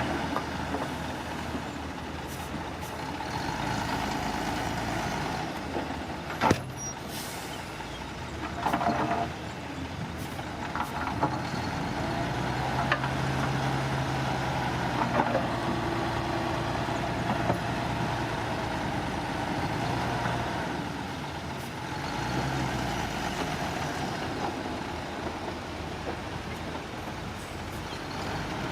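Heavy dump truck's diesel engine running steadily, with a sharp bang about six and a half seconds in and a brief louder burst around nine seconds.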